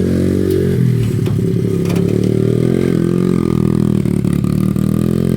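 Small dirt bike engine running close by, its revs falling and rising a little as it is ridden.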